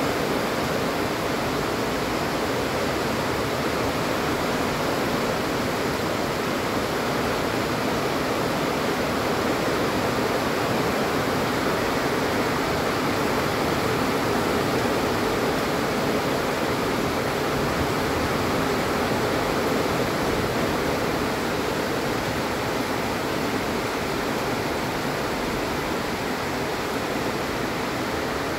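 Heavy rain falling steadily, an even, unbroken rush of water with no separate drops or thunder standing out.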